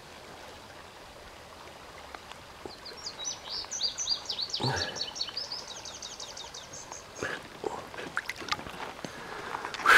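A songbird sings a long run of quick, high chirping notes, about six a second, with a single brief splash of water about halfway through.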